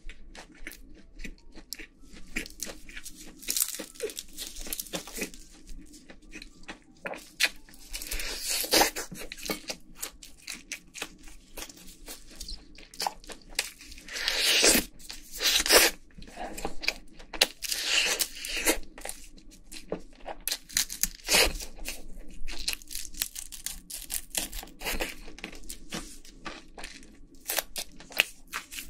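Biting and chewing fried chicken: a long run of short crunches and tearing crackles from the fried coating, with louder crunching bites now and then.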